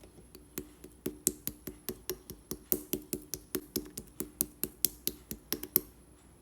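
Clear slime being squeezed and pressed by hand, giving sticky popping clicks in an even rhythm of about five a second, which stop near the end.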